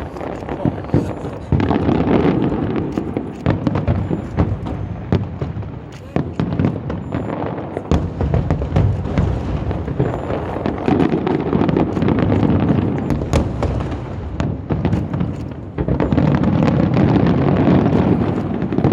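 Aerial fireworks display: a dense run of sharp pops and crackles over continuous booming, growing louder again near the end.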